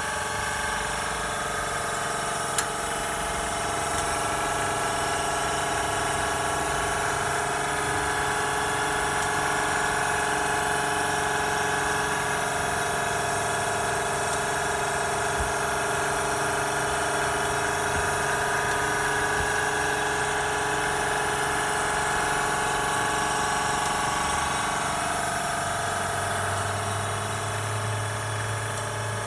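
Abnormal noise from the engine bay of a Toyota Alphard Hybrid ATH10W with the engine stopped: a steady, busy mechanical whirring made of many tones, which the owner suspects comes from the air-conditioning compressor rather than the inverter/converter. A low hum joins near the end.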